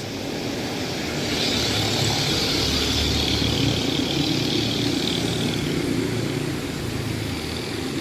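A motor vehicle passing on a wet street: a low engine hum with tyre hiss that builds about a second in and fades after about five seconds.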